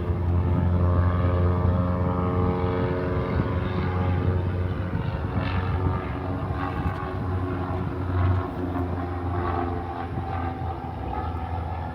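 Propeller airplane engine droning at a steady pitch, growing gradually fainter through the second half.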